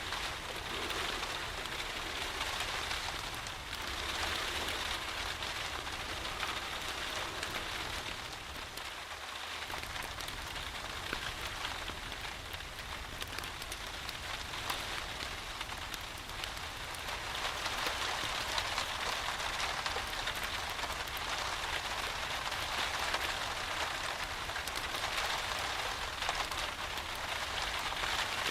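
Steady rain falling, mixed with a wood fire burning in a fireplace. The rain grows a little louder just past halfway.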